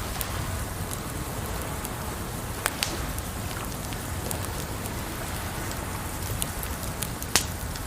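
Campfire crackling over a steady rush of water, with a few sharp pops from the burning wood, the loudest near the end.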